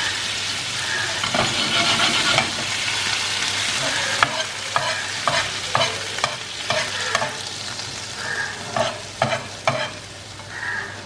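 Pav bhaji gravy sizzling in butter on a hot flat tawa, freshly splashed with water, the sizzle loudest at first and dying down. From about four seconds in, a metal slotted spatula scrapes and taps against the pan in a quick run of sharp clicks as the gravy is stirred and spread.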